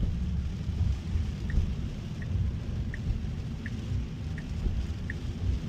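Steady low road-and-rain rumble inside a Tesla Cybertruck's cabin as it drives on wet roads in the rain. From about a second and a half in, a light tick sounds roughly every three-quarters of a second.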